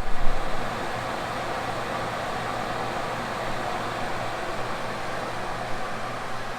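Water running steadily in a leaking master shower, with a steady low hum underneath.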